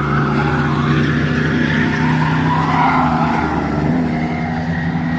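Bomber-class stock car engines running at race speed around the track: a steady, loud engine drone whose higher tones swell and ease as the cars circle.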